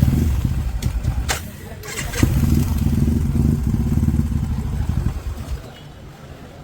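Motorcycle engine running, easing off briefly then picking up again about two seconds in, and fading away after about five seconds. A few sharp clicks sound around one to two seconds in.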